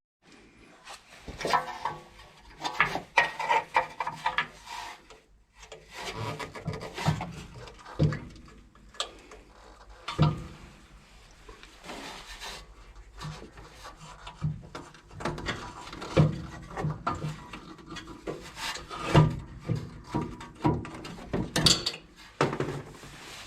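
Irregular scraping, rubbing and sharp knocks of hands and tools working on a car's exhaust while a muffler is being fitted.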